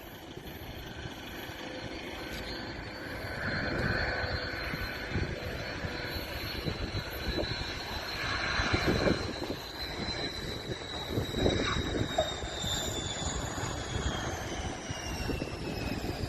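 Aircraft engine running with a high whine that slowly falls in pitch over the last several seconds, over an uneven low rumbling noise.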